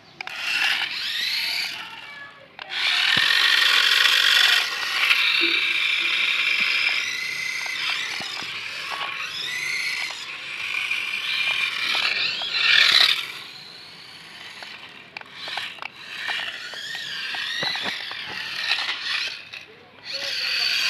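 Small electric motor and gears of a mini 4x4 car whining, the pitch wavering up and down as it speeds up and slows.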